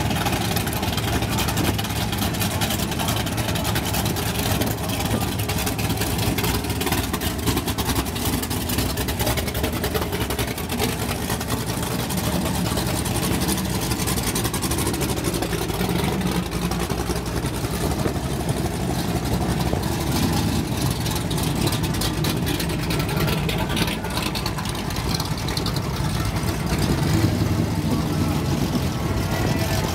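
Several V8 muscle cars idling as they creep past one after another, a steady engine rumble with no hard revving, growing a little louder near the end as one car comes close.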